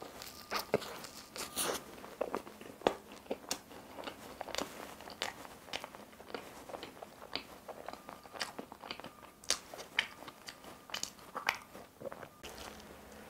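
Chewing and mouth sounds of someone eating a pastry: irregular wet clicks and smacks, some sharper and louder than others.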